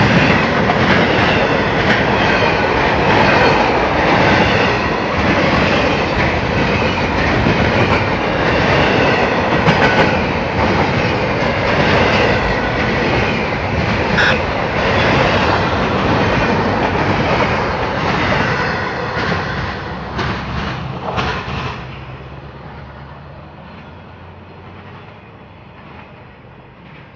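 Freight train cars rolling past close by, the wheels clattering over the rail joints with faint high wheel squeal. About 22 seconds in, the last car goes by and the sound drops away to a fading rumble.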